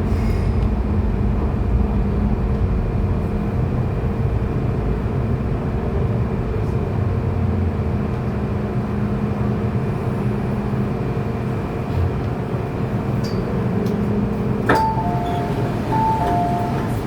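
Steady running noise inside an MTR M-Train: a rumble with a constant electrical hum. Near the end there is a click, then a two-note chime, higher then lower, that sounds twice, as comes before an on-board announcement.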